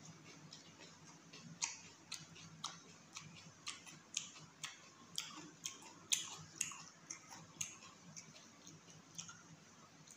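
Wet chewing with lips smacking, a sharp smack about twice a second, while eating chicken curry and rice.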